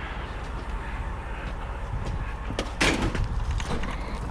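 A single loud clunk about three seconds in, over a steady low rumble.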